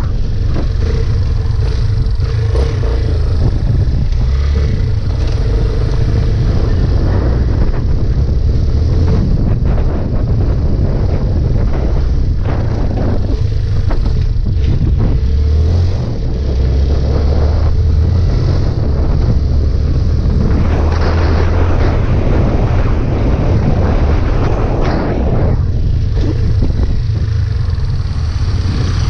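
Yamaha Fazer 250 motorcycle's single-cylinder engine running steadily, with a brief dip about sixteen seconds in.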